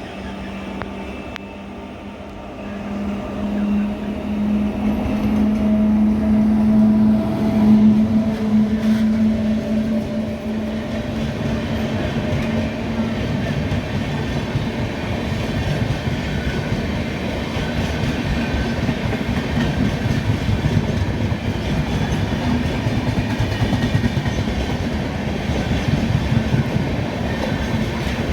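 A train passing close by. A steady locomotive hum swells over the first several seconds and fades after about twelve seconds, giving way to a continuous rumble and clickety-clack of wheels on the rails.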